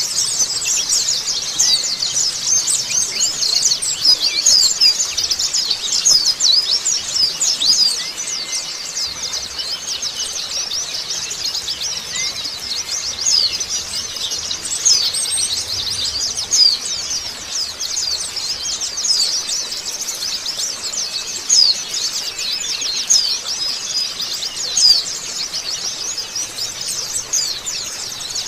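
A flock of white-eyes (pleci) chirping together in a dense, unbroken chatter of quick, high chirps: an 'obyokan' flock chorus used as a lure to set caged white-eyes singing.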